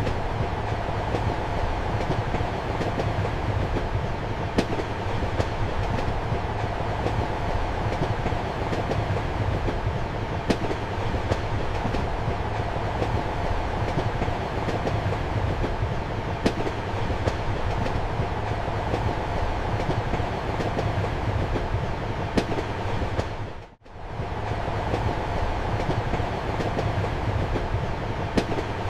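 Steady rumble and hum of a passenger train running, heard from inside a compartment, with a sharp click every few seconds as wheels pass over rail joints. About 24 seconds in, the whole sound dips almost to silence for a moment, then returns.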